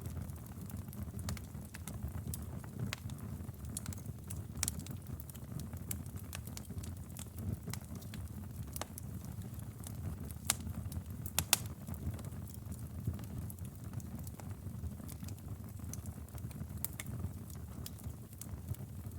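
Wood fire burning in a fireplace: a steady low rumble of flame with scattered sharp crackles and pops, the loudest a quick pair of pops a little past halfway.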